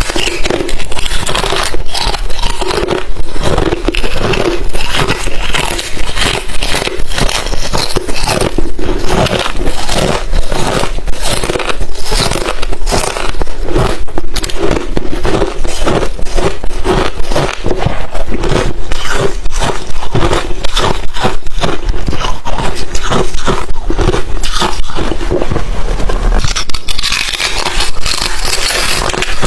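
Crushed, thin refrozen ice chips being chewed close to the microphone: dense, continuous crunching and crackling.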